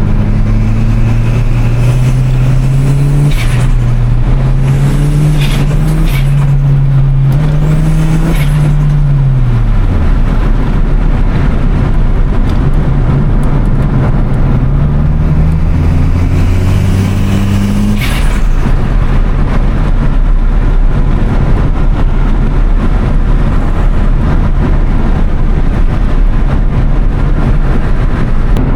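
Toyota Starlet Glanza V's turbocharged four-cylinder pulling through the gears, its pitch climbing in steps, with short bursts of turbo flutter as the throttle closes, several in the first ten seconds and one about 18 seconds in. The engine note drops away around ten seconds in. In the last third it fades under steady road noise.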